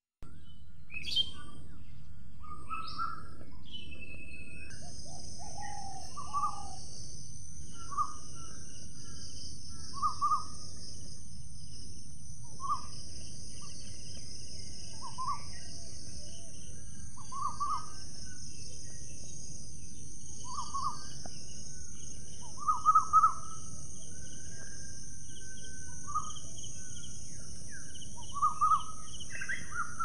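A bird repeating a short call about every two seconds, the calls loudest and quickest about two-thirds of the way through, over a steady high-pitched hum that sets in a few seconds in.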